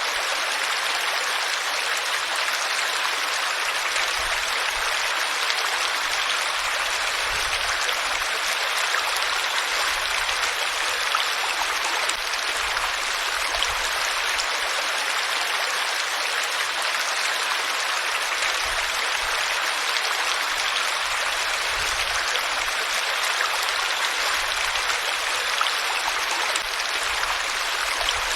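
Flowing water, a steady rushing stream with no change in level.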